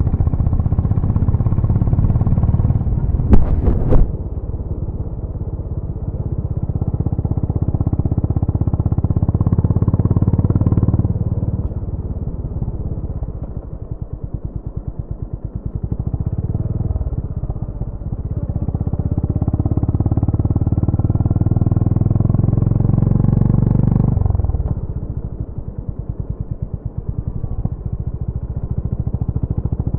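Exhaust of a Honda GB350's air-cooled single-cylinder engine running, its note swelling and easing as revs rise and fall, with slow, separate firing pulses in the quieter stretches. A brief cluster of sharp knocks comes about three seconds in.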